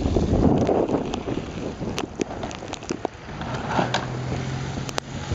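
Strong blizzard wind gusting and buffeting the microphone, heaviest in the first couple of seconds, with scattered sharp crackles. A low steady hum comes in over the second half.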